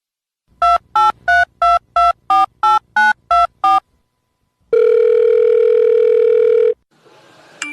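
Touch-tone telephone keypad dialling a number, about ten short two-tone beeps in quick succession, followed by a single steady ringing tone on the line lasting about two seconds.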